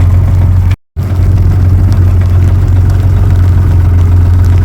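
Tractor engine idling steadily with a deep, even hum. The sound drops out completely for a moment about a second in.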